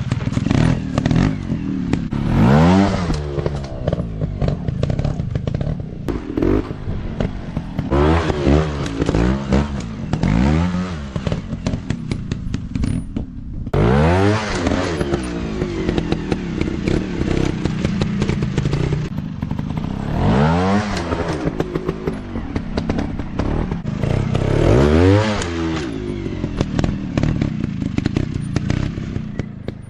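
Dirt bike engines revving hard and dropping back again and again, about six sharp rises and falls in pitch over half a minute, the engines running between them.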